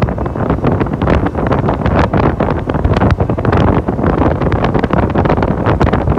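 Strong wind buffeting the microphone, a loud uneven rumble with rapid gusty thumps throughout.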